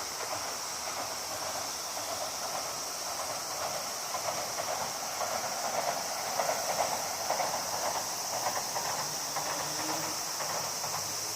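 Running river water with a steady high-pitched insect drone above it; the rattling rush of the water swells about halfway through.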